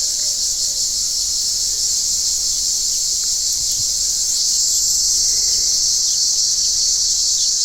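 Cicadas buzzing, a steady high-pitched drone that grows slightly louder about halfway through.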